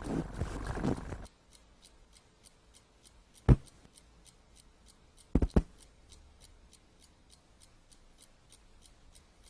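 A noisy sound cuts off a little over a second in. Faint, even ticking follows at about three ticks a second, with one sharp knock about three and a half seconds in and a quick double knock about two seconds later.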